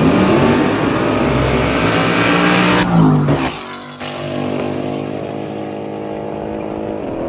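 Ford Mustang engine accelerating hard, its pitch rising for about three seconds, with a couple of sharp loud bursts near three seconds; from about four seconds it settles into a steadier running note.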